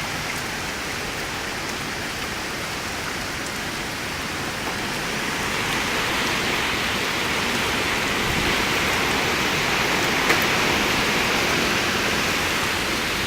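Heavy hurricane rain pouring down steadily, growing a little louder about halfway through, with a single brief click near the end.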